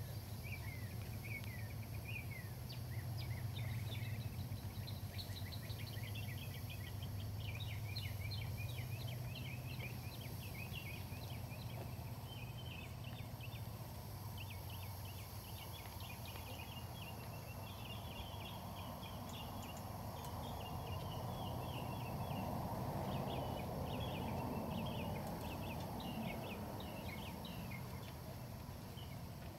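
Small birds chirping and trilling in quick runs throughout, over a steady low hum of outdoor background noise.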